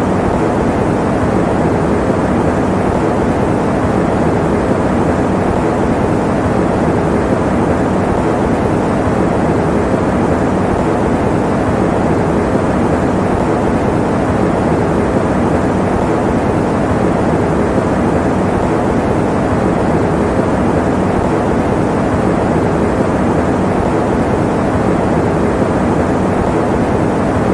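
Electric fan running steadily: an even, unchanging whooshing noise, weighted toward the low and middle pitches, with a faint low hum under it.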